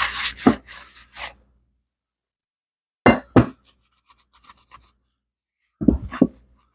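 Metal tools and engine parts clinking and knocking as they are handled, in three short clusters. The later two clusters are each a pair of sharp strikes about a third of a second apart.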